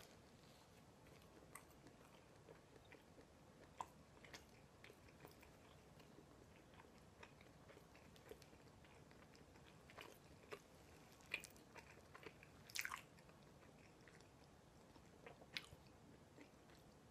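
Faint chewing of a mouthful of katsu sandwich (breaded pork cutlet in soft white bread): scattered soft mouth clicks and smacks, with a slightly louder one about three quarters of the way through.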